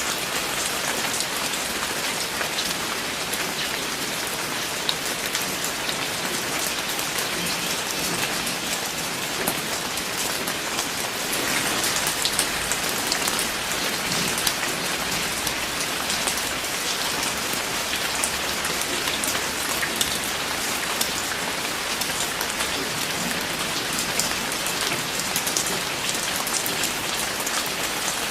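Steady rain falling on a surface, a dense patter of many drops with individual drops ticking through it, a little heavier for a couple of seconds near the middle.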